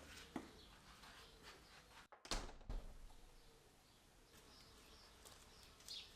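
Faint birds chirping against quiet outdoor ambience, broken about two seconds in by a sharp knock, with a few softer clicks around it.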